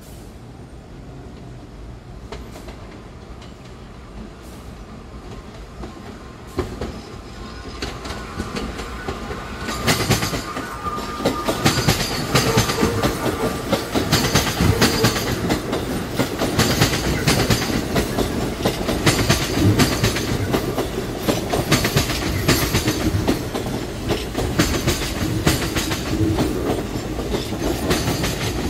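New York City subway train on the BMT Sea Beach Line coming in and running past: a faint rumble grows about a third of the way in, then turns loud, with the wheels clicking rapidly over the rail joints and a brief whine as it nears.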